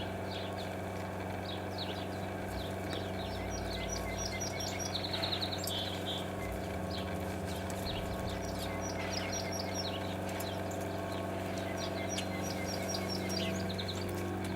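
Songbirds singing: a short, quick run of high notes repeated three times, with scattered chirps between, over a steady low hum.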